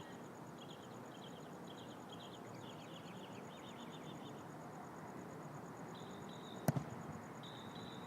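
A soccer ball struck once, a sharp thump about two-thirds of the way in with a smaller knock just after it, over a steady outdoor background of high insect and bird chirping.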